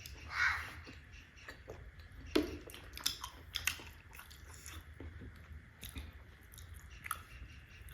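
Close-up chewing of steamed meat momos: irregular wet mouth clicks and smacks.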